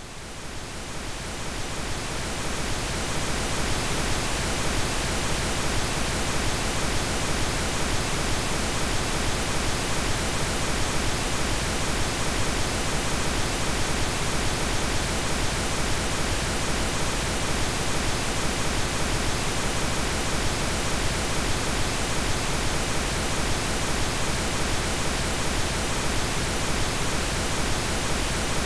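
Synthetic pink noise: a steady, even hiss spread across all pitches. It fades up over the first two or three seconds, then holds level.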